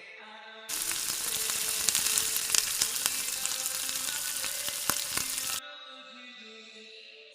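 Potato fries frying in hot oil: a loud, dense sizzle full of sharp crackling pops that starts abruptly a moment in and cuts off about five seconds later. Background music plays before and after it.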